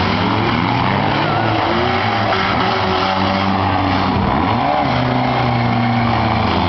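Several four-cylinder demolition derby car engines running and revving up and down together as the cars maneuver on the track.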